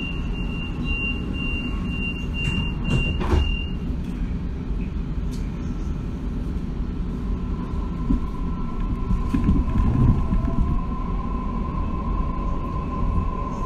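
Waratah double-deck electric train's door-closing warning beeps, about two a second, stop after a few seconds amid a couple of knocks as the doors shut. Then the carriage rumbles on, and a steady electric motor tone comes in about eight seconds in as the train moves off.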